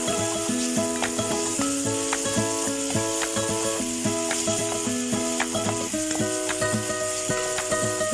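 Chopped tomatoes and onions frying in hot oil in a pan, sizzling steadily as they are stirred with a wooden spatula. Background music with a simple note-by-note melody plays over it.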